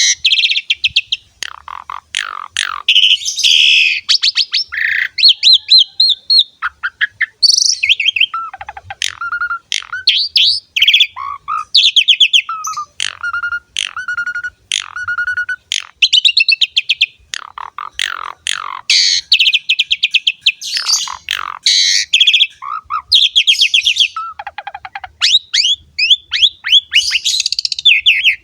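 Asian pied starling (jalak suren) singing a long, varied song: rapid chattering clicks and trills mixed with clear whistled notes and harsh rasping phrases, with hardly a pause.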